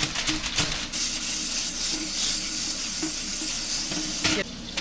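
Brief crinkling of aluminum foil, then a steady hiss that cuts off sharply about four and a half seconds in.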